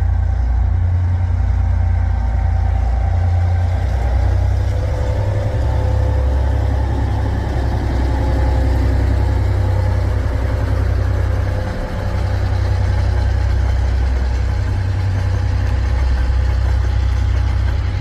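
Freight train rolling past: a steady heavy low rumble with faint held whining tones above it.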